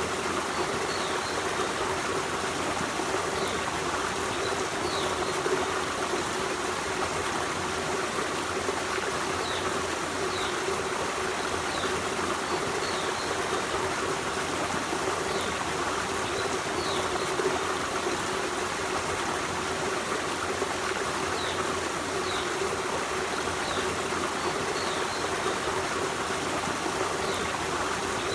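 Forest stream running: a steady, unbroken rush and babble of water, with faint high chirps now and then.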